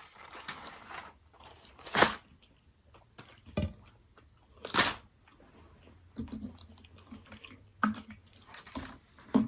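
A person chewing and biting into food close to the microphone, wet mouth sounds with two louder sudden crunches, one about two seconds in and one near the middle.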